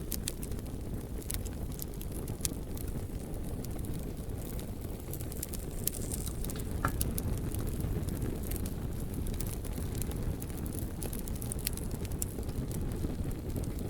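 Wood fire burning in a fireplace: a steady low rumble with scattered sharp crackles and pops, and a short whistle-like note about halfway through.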